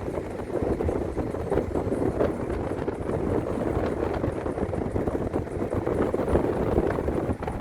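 Vehicle running steadily, a continuous low rumble with small irregular knocks and rattles.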